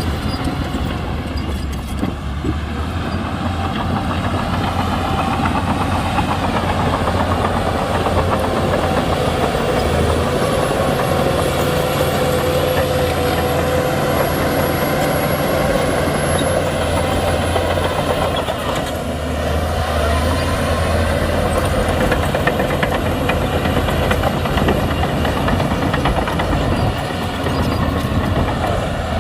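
Shantui crawler bulldozer's diesel engine working steadily under load, a deep rumble with a thin high whine for several seconds midway. The engine eases briefly about two-thirds of the way through, then picks up again.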